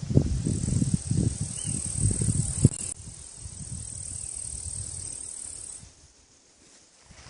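Insects chirring in a steady, high-pitched band, with an uneven low rumble under it for the first three seconds. Both fade out a little before the end.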